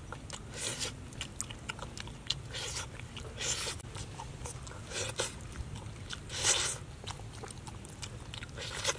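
A person chewing and biting into roasted chicken, tearing the meat apart by hand, with crunchy mouth sounds in irregular bursts over a steady low rumble.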